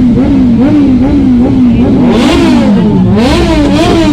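A vehicle engine revved in quick repeated throttle blips, its pitch rising and falling. Two bigger revs come about two and three seconds in.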